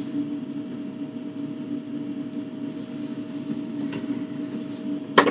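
A steady electrical hum with two even tones, and a sharp knock near the end.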